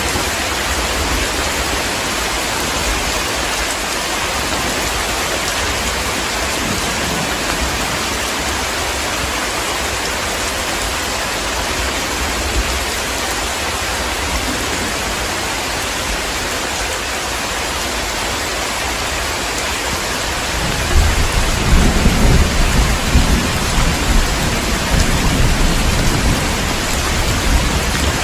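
Heavy rain falling steadily in a thunderstorm. About two-thirds of the way through, a long, low rumble of thunder rolls in and lasts several seconds.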